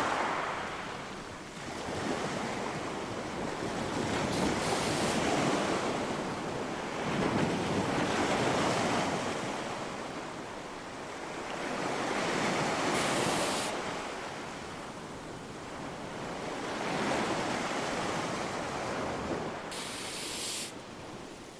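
Wind-driven rain against a window, a steady hiss that swells and fades in gusts every few seconds and dies away near the end.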